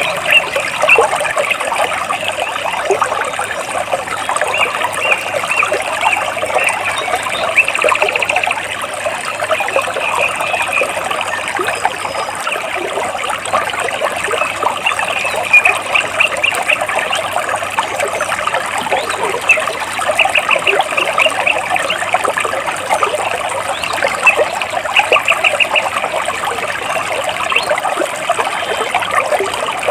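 Stream water trickling and splashing steadily between large rocks. A bird gives short, rapid high trills a few times over it.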